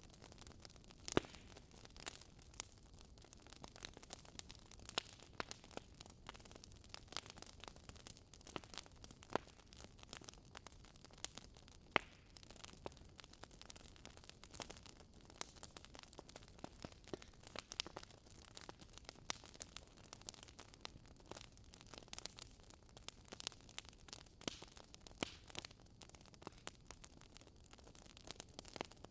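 Wood fire in a fireplace crackling, with irregular sharp pops and snaps over a soft steady hiss; a few pops stand out louder, about a second in and around the middle.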